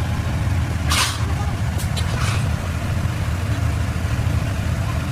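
A steady low engine-like drone, with two short bursts of hiss about a second and two seconds in.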